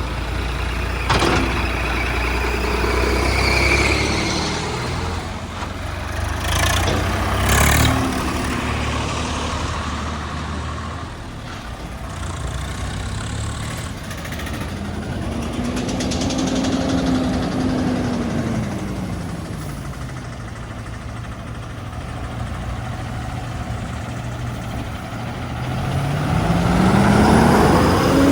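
Heavy diesel engines of earth-moving machinery and trucks running. One engine revs up and down, its pitch rising and falling and climbing again near the end. Short bursts of noise come about a second in and again around seven seconds.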